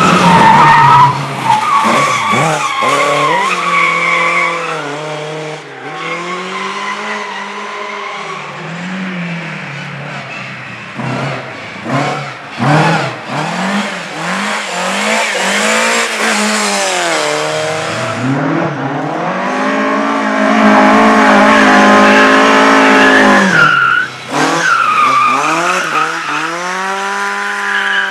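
Racing car engines revving hard, the pitch climbing through each gear and falling at the shifts and under braking, over and over.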